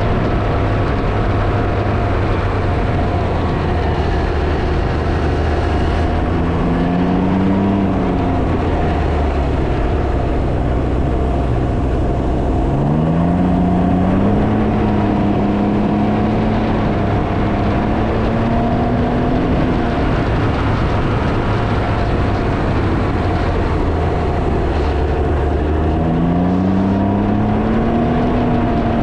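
Can-Am Ryker three-wheeler's engine pulling the bike along, its pitch climbing as it accelerates about three times, under heavy wind buffeting on the microphone.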